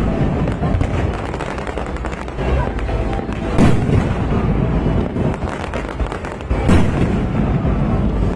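Aerial fireworks bursting: a dense, continuous crackle of small pops over a low rumble, with heavier booms about three and a half seconds in and again near seven seconds.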